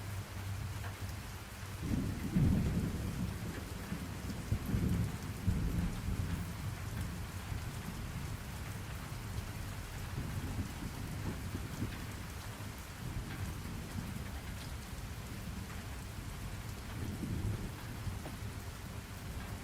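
Steady rain with low rolls of thunder: the strongest rumbles come about two seconds in and again around five to six seconds, with a fainter one near the end.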